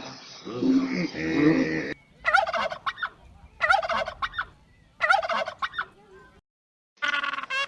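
Turkey gobbling: three separate rattling, warbling gobbles about a second and a half apart. A different animal's call is heard for the first two seconds, and another bird call begins near the end.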